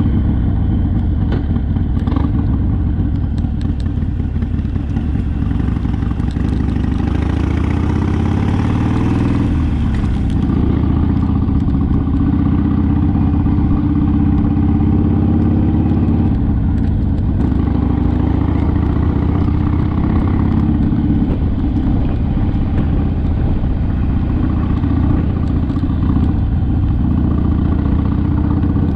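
Harley-Davidson Sportster's V-twin engine running on the move. Its note climbs from about six seconds in, drops back near ten seconds, and then rises and falls more gently as the speed changes.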